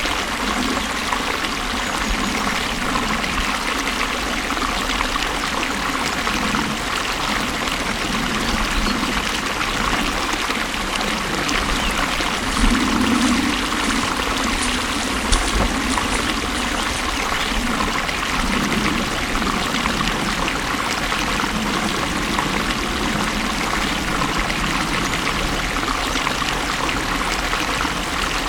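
Water flowing steadily, a continuous rushing and trickling, with two brief louder moments near the middle.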